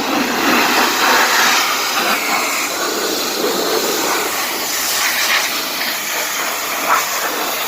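Pressure washer's high-pressure water jet spraying onto the car's engine bay: a steady, loud hiss whose tone shifts as the spray moves across surfaces.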